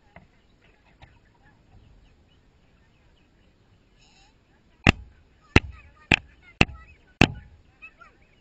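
Chickens pecking at the camera: five sharp taps of beak on the housing in about two and a half seconds, starting about five seconds in, over soft clucking and chirping from the hens.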